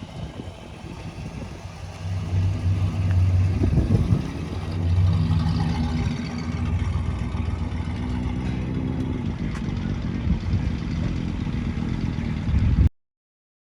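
Car engine running and revving, growing louder about two seconds in with a couple of rises and falls in pitch, then holding a steady note; the sound cuts off abruptly near the end.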